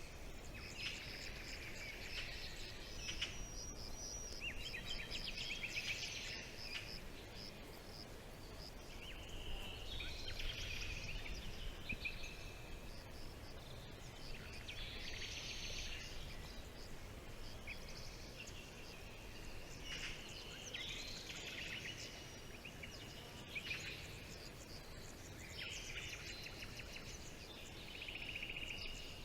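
Several small birds singing and chirping in woodland, with phrases of rapid trills and chirps coming every few seconds, over a steady low background rumble.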